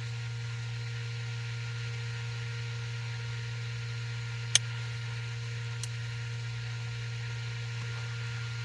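Steady low hum, with a single sharp click about halfway through and a fainter click a second later.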